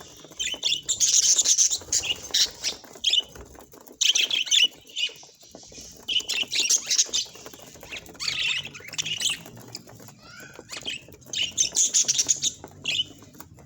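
Budgerigars chirping and chattering in short, rapid bursts, about one burst every second or two.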